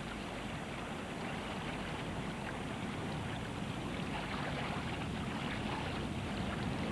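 A river in flood flowing, its water rushing steadily and growing slightly louder toward the end.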